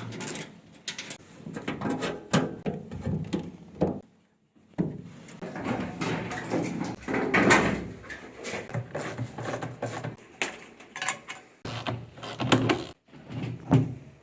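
Irregular knocks, clicks and scrapes of tools and metal parts being handled during washing machine repair work, with a brief high squeak about ten seconds in.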